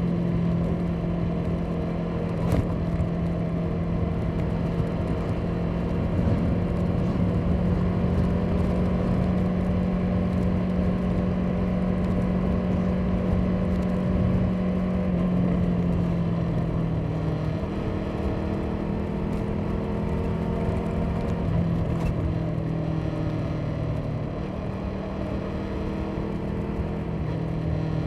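Motorcycle engine running at a steady riding speed, with low wind and road rumble on the microphone. The engine note steps down slightly a little past halfway.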